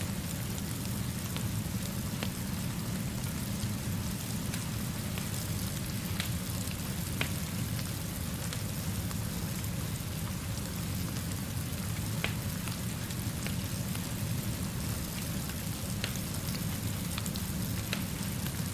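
Steady rainfall over a low, even rumble, with scattered sharp ticks every second or two.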